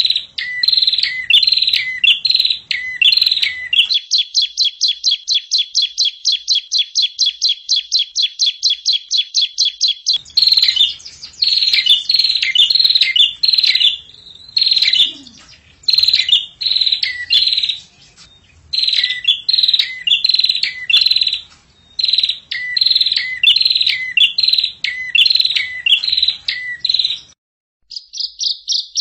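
Recorded songbird song played as a masteran training track: short, high chirping phrases repeated again and again, each dropping to a lower note at its end. From about 4 s to 10 s there is one long, rapid, even trill of about six notes a second, and near the end the song cuts off abruptly before another fast trill starts.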